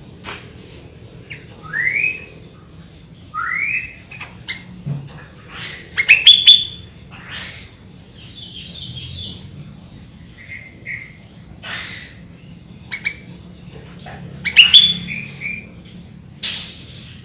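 Sooty-headed bulbul singing in short separate phrases: rising whistled sweeps, chirps and sharp calls, its song laced with phrases taken from the white-rumped shama. The loudest calls come about six seconds in and again near the end.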